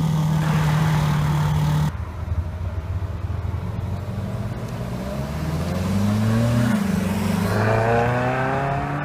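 Car engines: a steady held engine note that cuts off abruptly about two seconds in, then an engine revving up with steadily rising pitch, briefly dropping once before climbing again, as a car accelerates.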